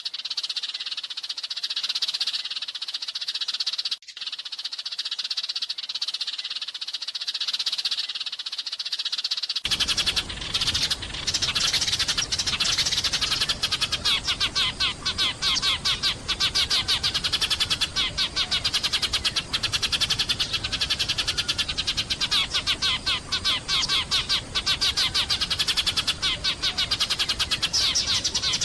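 Sparrows chirping continuously in a dense, overlapping chorus. About ten seconds in, a low background noise suddenly comes in and the chirps turn into fast, evenly repeated calls.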